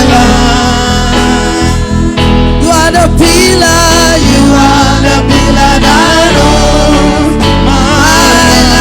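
Loud gospel praise song: singing over steady instrumental accompaniment.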